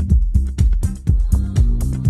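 Electronic dance music from a live set: a steady kick drum a little over two beats a second, with crisp hi-hat strokes between the beats and a held bass line.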